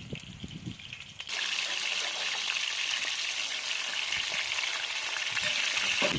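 Water starts running or pouring suddenly about a second in and then goes on as a steady hiss.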